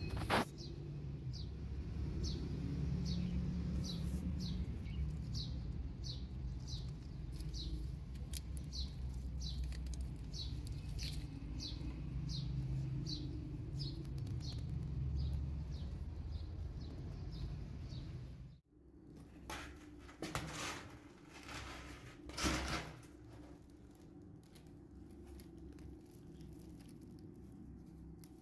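A small bird repeating one short, falling chirp about one and a half times a second, over a low rumble. Two-thirds of the way through the sound cuts off to a quieter room with a few knocks.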